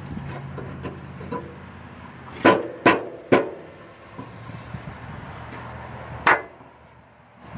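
Hammer blows on metal: three quick strikes about a second apart, then a single strike a few seconds later, over a steady low hum.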